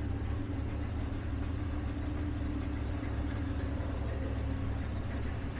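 Steady low mechanical hum from running shop machinery, even and unbroken, with no cutting, knocks or clatter.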